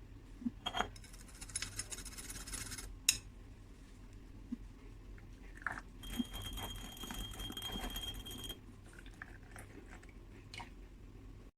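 Matcha being made up: a couple of sharp clicks and knocks, and two spells of mixing the powder into water, each about two seconds long, the second carrying a thin steady high whine.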